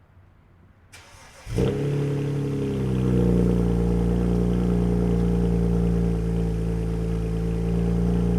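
BMW E92 335i's turbocharged straight-six on its stock exhaust cold-starting: a short crank about a second in, then the engine catches with a jump in loudness and settles into a steady cold idle.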